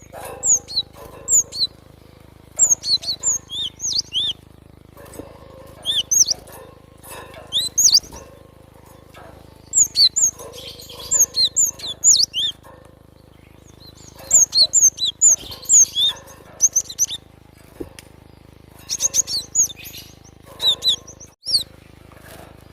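Cinereous tit (gelatik batu) singing: phrases of quick, high, clear chirping notes, repeated in groups with short pauses of a second or two between them.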